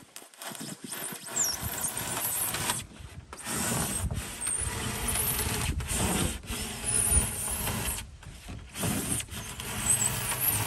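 A saw cutting through 2-inch rigid foam board insulation: a rasping, squeaky scraping with a few short pauses.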